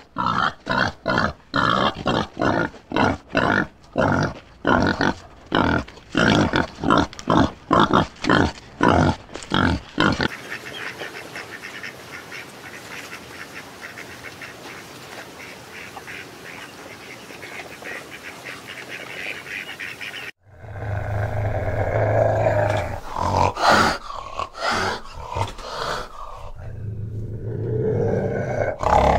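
Wild boars grunting, a fast run of about two to three grunts a second for roughly the first ten seconds. Then a steady, even rustling noise for about ten seconds, and in the last part low animal growling.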